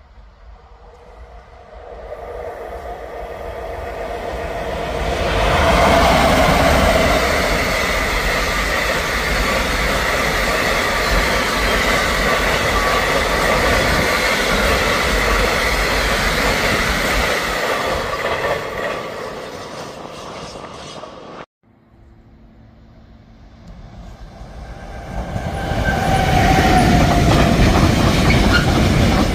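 Freight train of tank wagons passing close by: the rumble and clatter of wheels on rail build up over several seconds and then hold steady. It cuts off abruptly about three-quarters through, then the wagon clatter builds up again.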